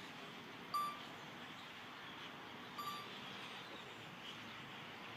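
Two short, clear chime-like notes about two seconds apart, the first the louder, over a steady outdoor hiss with faint scattered chirps.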